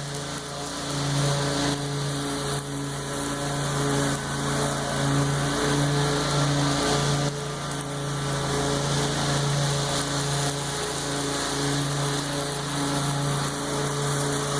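Lawn mower engine running at a steady pitch through tall grass, its level swelling and dipping, with a hiss over it.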